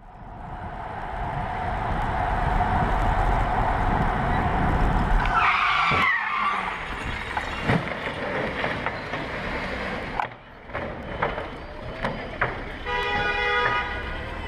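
Car and road noise, with a tyre squeal about five and a half seconds in and sharp knocks soon after: a car skidding into a crash.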